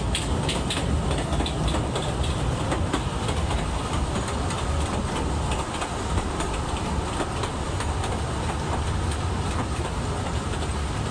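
Kurobe Gorge Railway narrow-gauge trolley train running: a steady rumble of wheels on the rails, with a quick run of clicks over the rail joints in the first few seconds.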